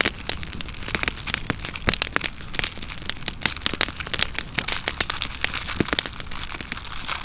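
Wood campfire crackling, with a continuous run of irregular sharp snaps and pops.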